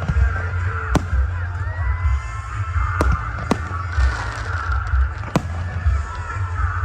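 Fireworks going off in a show, with about four sharp cracks over a steady deep rumble, and music playing along.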